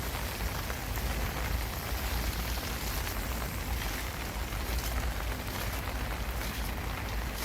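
Steady rain falling, an even hiss with scattered sharper drop ticks, over a steady low rumble.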